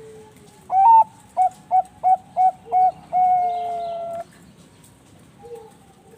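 Bangkok-line perkutut (zebra dove) cooing: a rising opening note, a run of five short clipped notes, then one long note sliding slightly down. Fainter coos from other doves sound before and after it.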